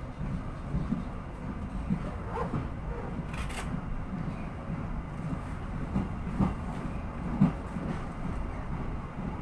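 Moving economy-class passenger train carriage running along the track: a steady low rumble with a few knocks from the wheels and couplings, the loudest about seven and a half seconds in, and a brief hiss about three and a half seconds in.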